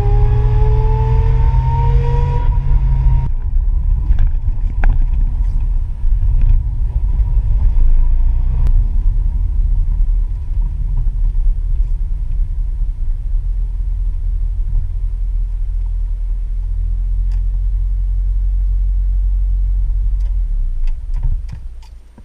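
Toyota AE86 Corolla driving: the engine's pitch rises as it accelerates and breaks off abruptly about three seconds in, then a steady low drone of the car running on the road, fading out near the end.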